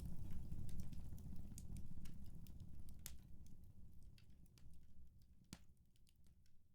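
Wood fire in a fireplace crackling, irregular sharp pops over a low rumble, with two louder pops about three and five and a half seconds in. The whole sound fades out gradually.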